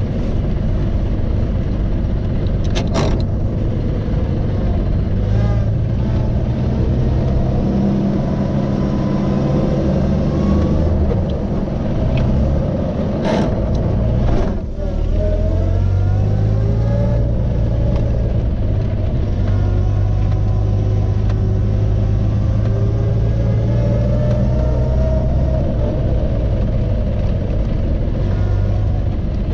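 The engine of a 1930 Series 61 car running as it is driven, its pitch climbing in stretches as it speeds up, with a brief lull about halfway. Two sharp clicks stand out, one early and one just before the lull.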